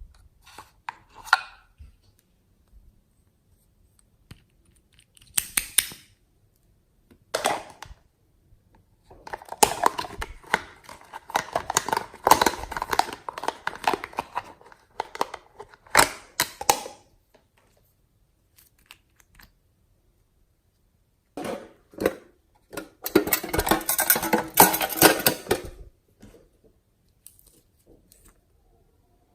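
Slime being squeezed, stretched and mixed by hand, giving bursts of crackling, popping clicks with short pauses between handfuls.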